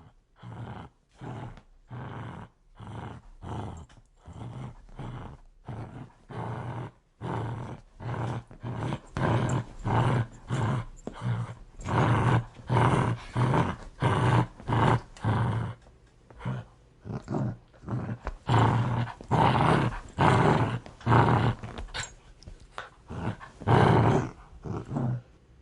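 Dog growling in a rapid series of short pulses, about two a second, quieter at first and louder from about a third of the way in.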